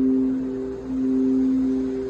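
Singing bowls ringing: several steady tones sounding together, the lowest one the strongest, with a brief dip about a second in before it swells again.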